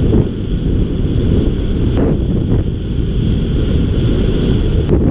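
Wind buffeting the microphone of a camera on a bicycle moving fast downhill: a loud, steady low rumble.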